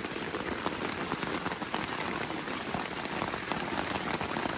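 Strong gusty wind with a steady crackling rustle, and two short high chirps.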